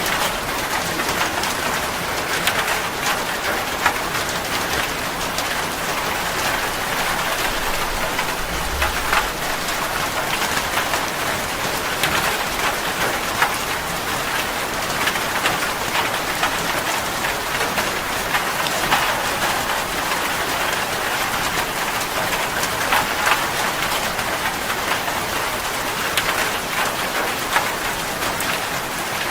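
Steady rain falling on a surface: a constant hiss with scattered close drop ticks.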